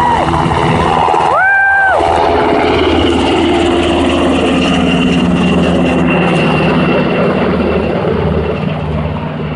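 Helicopter running close by: a steady, loud engine and rotor noise with a high whine. Two short held tones sound within the first two seconds.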